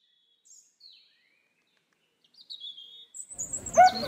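Small birds chirping faintly: a few short, high calls that slide downward. Near the end, the chatter of a crowd comes in with one loud, short call.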